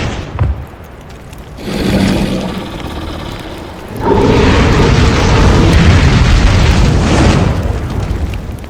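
Loud booming, rumbling sound effect. It opens with a hit, swells about two seconds in, then holds a long loud rumble from about four seconds before fading away near the end.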